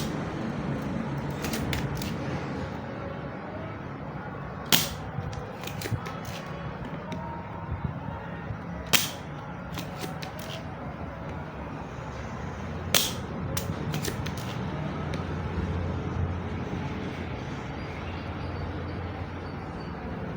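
Hand work on a circuit board on a workbench: scraping and handling over a steady low hum, with four sharp clicks or taps about four seconds apart and a few lighter ticks.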